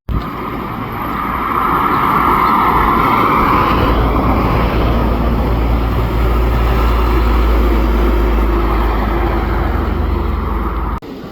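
Truck on the road, its engine and tyre noise building over the first two seconds, then staying loud and steady.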